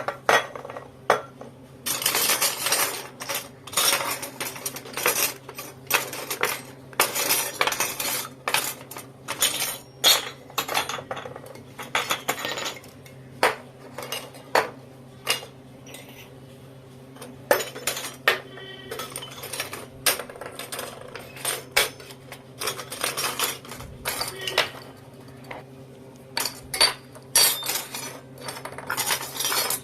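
Miniature toy kitchen utensils and dishes clinking and clattering as they are handled and set down: many small, irregular clinks and taps, with a faint steady hum underneath.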